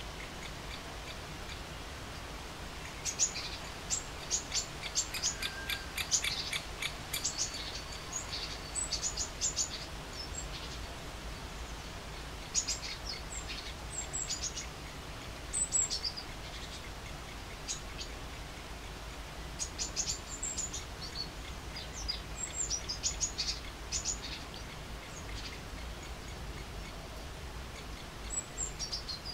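Birds chirping: several bursts of short, sharp high-pitched calls, some in quick runs, over a steady low background rumble.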